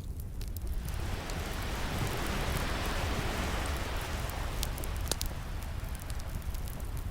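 An ocean wave washes in, swelling to a hiss near the middle and then fading, over the sharp pops and crackles of a burning wood fire.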